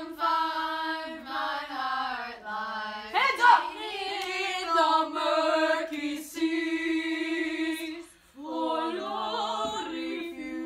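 A small group of women's voices singing held vowel notes together without accompaniment, a choir vocal warm-up exercise, stepping from note to note with a short break about eight seconds in.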